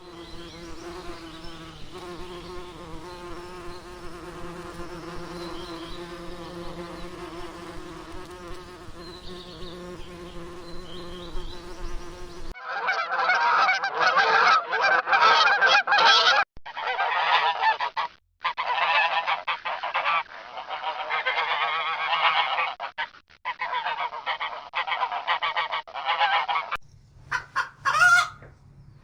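A steady buzzing hum for about the first twelve seconds. Then a flock of geese honking loudly and continuously, with brief pauses, until a couple of seconds before the end.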